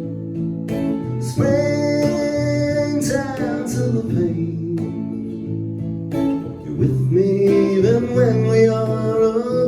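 Live song: acoustic guitar strummed under long held notes from a singer.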